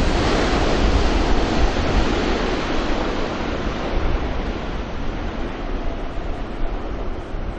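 A landing aircraft's engines give a loud, even rushing roar that slowly fades as it moves away. Strong wind buffets the microphone with a low rumble underneath.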